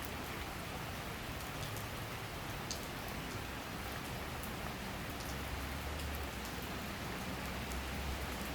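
Steady summer rain shower falling on surfaces, a dense hiss with scattered sharp drop ticks and a low rumble underneath that grows stronger in the second half.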